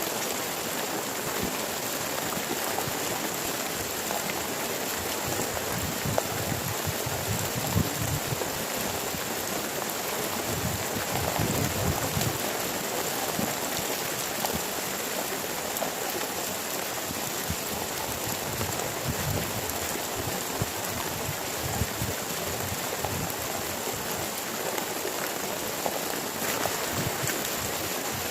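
Heavy rain pouring steadily, with irregular low rumbles.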